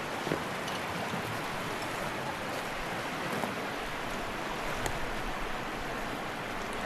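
Steady rush of a fast mountain river, with a few faint clicks over it.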